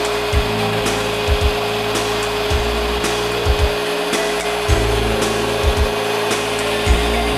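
Porter-Cable router in its plunge base running steadily and cutting wood, a constant motor whine over a steady cutting noise.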